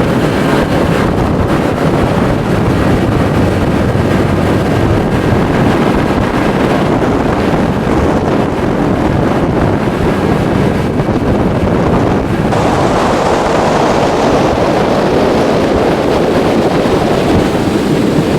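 1992 Johnson 60 hp two-stroke outboard running steadily at a low trolling idle, with wind buffeting the microphone.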